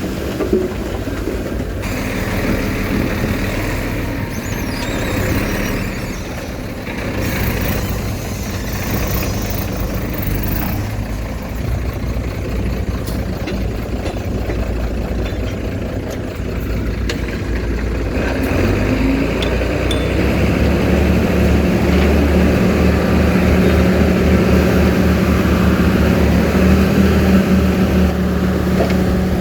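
Diesel engine of heavy earthmoving machinery running steadily. About two-thirds of the way through it gets louder, with a stronger steady engine note.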